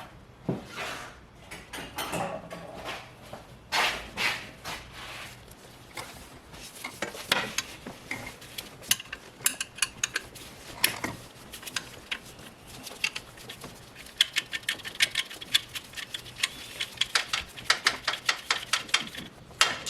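Hand ratchet and socket clicking in runs of quick clicks, with metal tools clinking, while the 12mm bolt under the alternator is worked loose.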